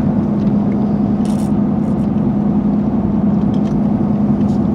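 Steady drone of a truck heard from inside the cab, engine and road noise with a constant low hum.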